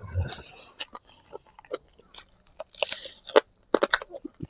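Close-up chewing and biting of spicy braised pig feet: a run of irregular wet clicks and mouth smacks.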